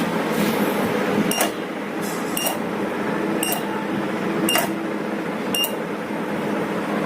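Short ticks, each with a brief high beep, repeating evenly about once a second, five times, over a steady background hum and noise.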